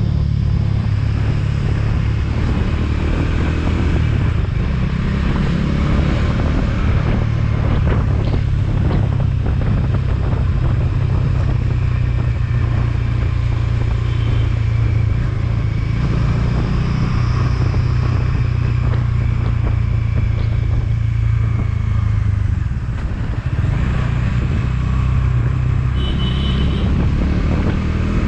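Motorcycle engine running steadily while riding, over a rushing wind and road noise. The engine eases off briefly about two-thirds of the way through, then picks up again.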